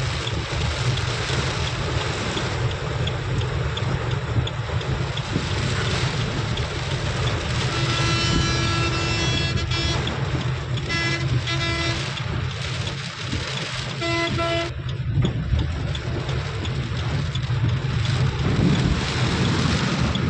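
Heavy rain falling, with wind rumbling on the microphone. A vehicle horn sounds midway: one long blast of about two seconds, then two short toots, then one more brief honk a couple of seconds later.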